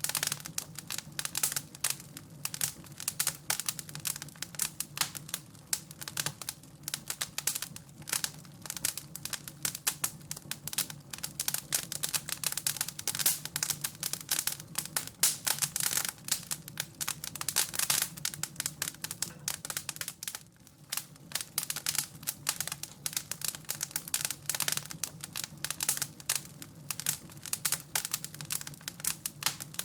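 Fireplace fire crackling and popping: dense, irregular snaps over a steady low hum, easing briefly about two-thirds of the way through.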